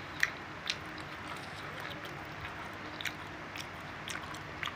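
Close-up mouth sounds of a man chewing a chewy cilok tapioca ball in sauce: scattered short wet smacks and clicks, half a dozen or so, over a steady low background hum.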